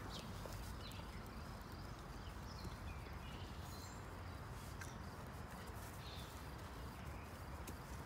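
Farmyard ambience: small birds chirping, with scattered faint clicks and rustles over a steady low rumble.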